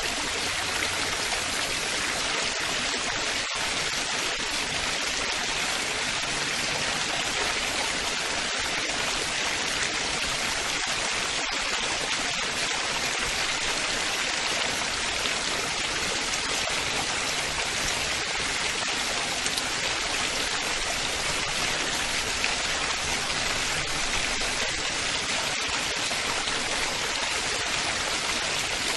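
Running water splashing and babbling steadily, an even bright hiss with no pauses.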